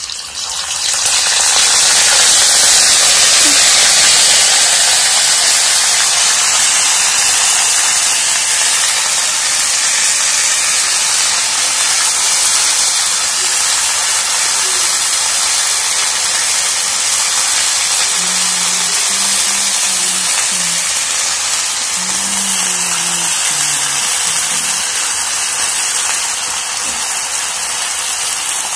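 Food sizzling in hot oil in a wok: a loud, steady hiss sets in as the ingredients go into the oil and slowly eases off as they fry.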